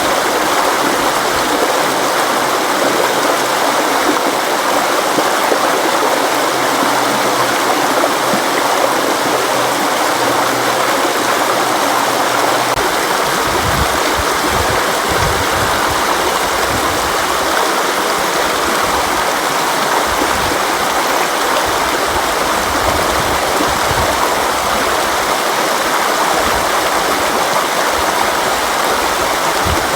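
River water flowing steadily: a loud, constant rushing wash. About 13 seconds in, a faint low hum underneath stops and irregular low rumbles come in.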